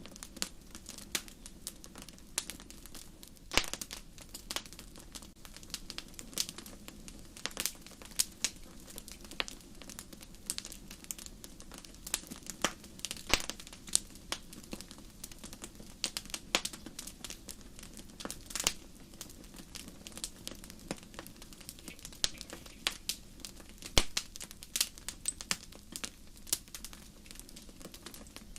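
Wood fire burning in a fireplace: a steady low rush of flames with frequent irregular crackles and pops, a few sharper snaps standing out.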